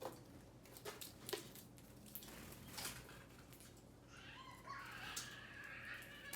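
Birds at a feeder: faint scattered clicks and taps, then a run of busy chattering calls starting a little past halfway.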